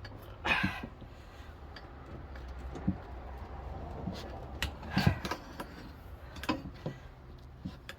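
Tire iron working a tire bead on a manual tire changer: scattered metal clicks and knocks, with a louder scrape about half a second in and a sharp knock about five seconds in, over a low steady hum.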